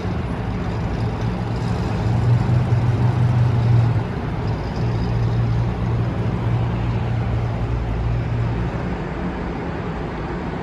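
Car engine running at idle, a steady low hum over the background noise of a busy hall, loudest a couple of seconds in and fading out near the end.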